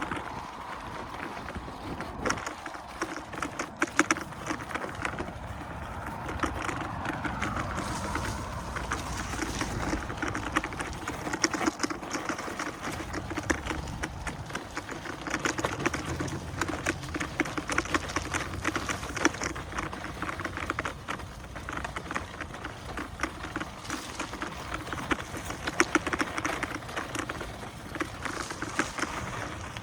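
InMotion E20 electric unicycle ridden along a dirt single-track: a steady crackling rattle of the wheel over the trail, dense with small clicks and knocks, and a short whine that glides in pitch about eight seconds in.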